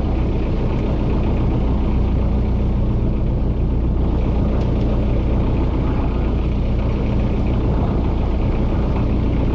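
Small fishing boat's engine idling steadily with a low, even hum.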